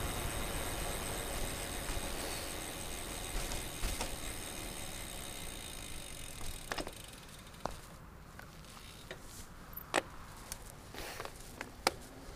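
Wind and rolling noise from a moving bicycle. It is steady at first and dies down after about six or seven seconds, giving way to a few scattered sharp clicks and rattles from the bike.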